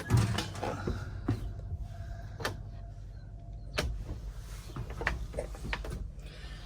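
Scattered light clicks and knocks, about six, over a low steady hum inside a truck cab.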